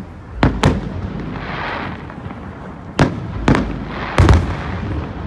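Aerial fireworks shells bursting overhead: five sharp bangs, two close together near the start, then three more spread over the next couple of seconds, each with a deep rumbling tail.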